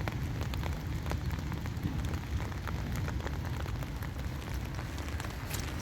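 Outdoor forest ambience picked up by a phone microphone on a walk: a steady low rumble with many small, irregular ticks and crackles over it.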